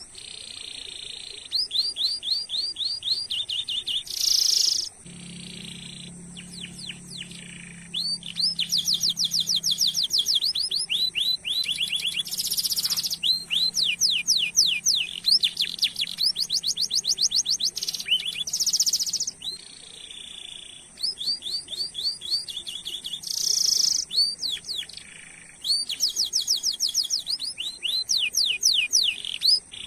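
Domestic canary singing a long song of fast trills, each a rapid run of repeated chirps, one phrase after another and broken now and then by short buzzy notes.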